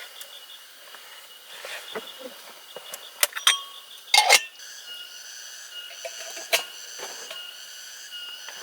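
Scattered clicks and knocks of camp gear being handled, the loudest cluster about four seconds in, over a steady high-pitched insect drone.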